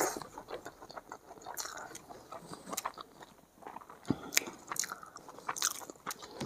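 Close-miked chewing of rice and egg curry, with wet mouth clicks and smacks scattered irregularly throughout, one sharper click a little after four seconds in.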